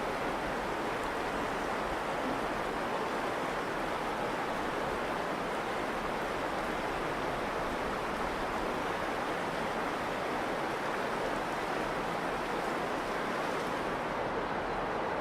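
Virgin River water flowing in a steady, even rush.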